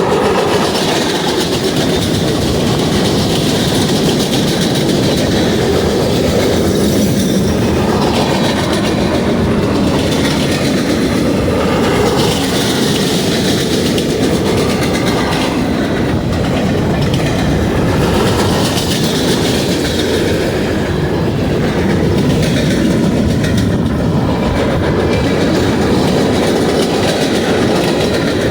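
Freight cars of a passing BNSF manifest train rolling by, with steady, loud wheel-on-rail noise.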